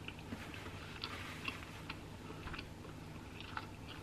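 Chewing a mouthful of toasted breakfast bagel with the mouth closed: scattered soft mouth clicks over a low steady hum.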